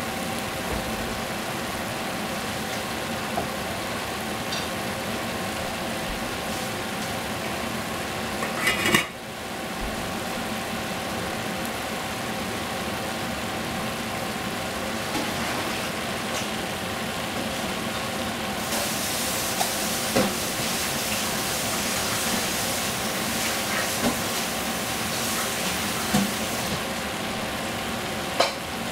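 Bok choy sizzling in a stainless-steel pot, a steady hiss over a faint steady hum. The hiss drops out briefly about nine seconds in and grows louder from about eighteen seconds in. A couple of sharp knocks come near the end.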